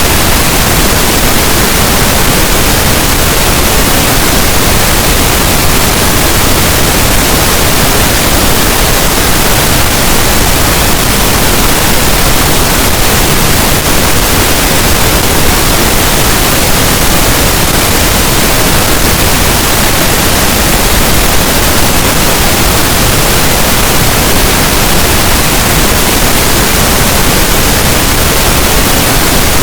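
Loud, steady pink noise: an even, unbroken hiss spread across all pitches, with no change or events.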